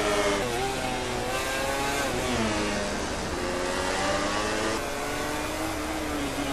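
MotoGP racing motorcycle engines at high revs, their pitch dropping and climbing again several times as the riders shift gears and brake into and accelerate out of corners.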